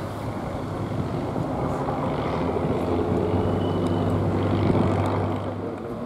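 Competing off-road trial truck's engine running steadily under load. It grows louder through the middle and eases off near the end.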